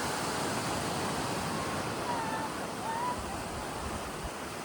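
Steady wash of ocean surf and wind, with a few faint short pitched calls about two and three seconds in.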